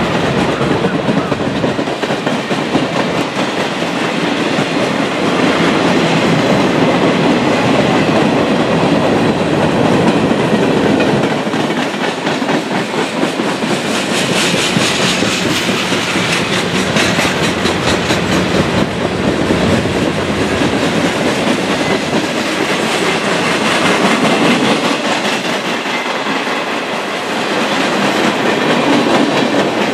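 Tank cars and boxcars of a freight train rolling past close by: a steady rolling of steel wheels on the rails with a continuous clickety-clack over the rail joints.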